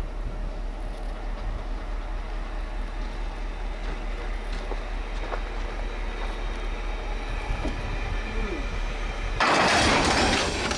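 EMD GP9 diesel locomotive running with a steady low hum. Near the end comes a loud hiss lasting about a second.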